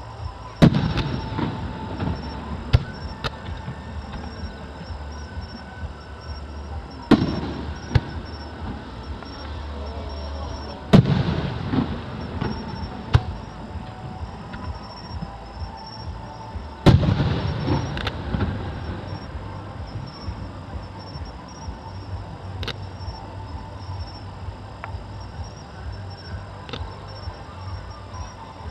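Aerial firework shells bursting with loud booms, the biggest about 1, 7, 11 and 17 seconds in, each followed by a rolling rumble of echo. Smaller pops and crackles come in between.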